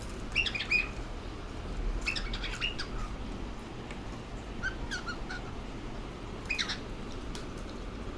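Cockatiel chirping in four short bouts of quick, high notes.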